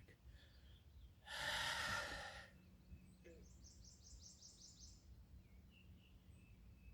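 A person's forceful breath out through the mouth, about a second long, starting about a second in, during a yoga Uddiyana Bandha breath-hold exercise. It is followed by a faint, rapid, high trill lasting about a second and a half.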